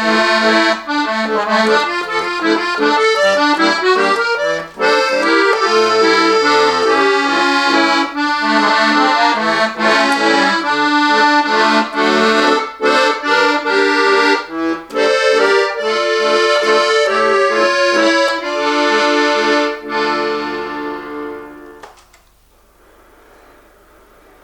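Solo bayan (button accordion) playing a lively passage of many quick notes and chords. About 20 s in it ends on a held final chord that dies away over a couple of seconds, leaving quiet room tone.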